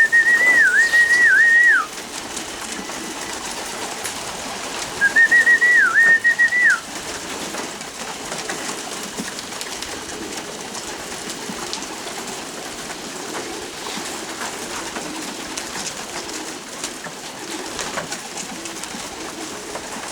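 A whistle calling racing pigeons in to the loft trap: two whistled calls about three seconds apart, each a held high note broken by quick dips and ending in a fall. Pigeons coo softly throughout.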